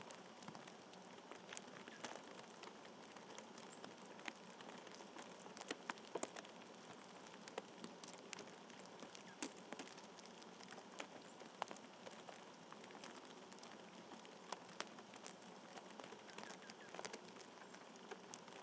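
Faint steady outdoor hiss with scattered light ticks and taps, a few sharper ones about six seconds in.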